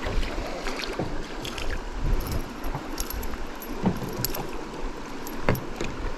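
Rushing water of a fast-flowing river stretch, with wind on the microphone and scattered small knocks and clicks.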